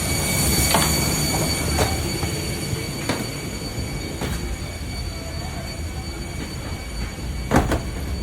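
Walking off an airliner through the jet bridge: a steady mechanical rumble with thin high whining tones, and footsteps knocking on the jet bridge floor about once a second.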